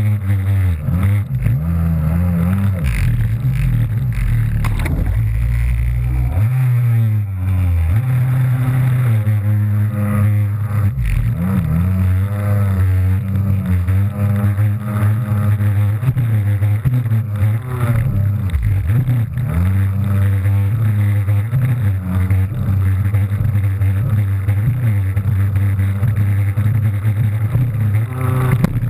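Kawasaki JS300 stand-up jet ski's two-stroke engine running hard, its pitch rising and falling again and again as the throttle is worked over the waves, with a few brief drops in revs.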